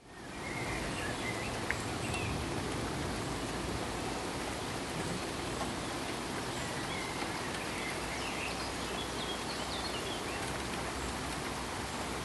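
Steady pink noise, an even rushing hiss like rain, fading in over the first second and then holding level. A few faint high chirps can be heard over it.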